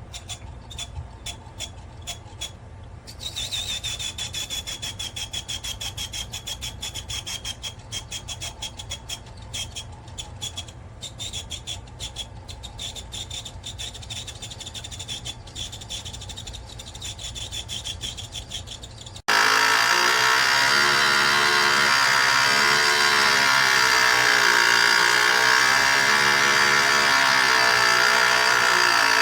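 Nugget ice maker running with rapid ticking and a high, slightly falling squeal. About two-thirds of the way through it cuts abruptly to a much louder, harsher grinding machine noise.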